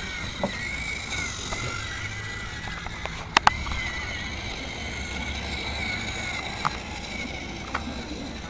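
Small electric motor of a toy train running with a steady, slightly wavering high whine. A sharp double click comes about three and a half seconds in, with single clicks later.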